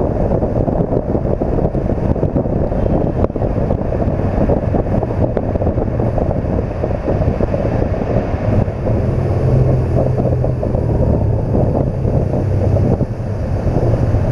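Heavy wind noise buffeting the microphone while riding a BMW R1200 GS Adventure, with the bike's flat-twin engine running underneath; a steady low engine note comes up more clearly about two-thirds of the way through.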